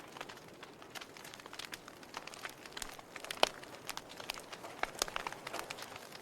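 Fire in a fireplace crackling: irregular sharp pops and snaps over a soft steady hiss, with one louder pop about halfway through.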